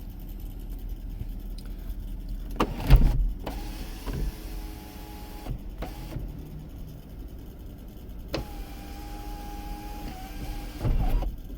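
A power sunroof's electric motor runs twice for a couple of seconds each time, a steady whine with a clunk as the panel moves and seats. The loudest clunk comes just before the first run and another near the end.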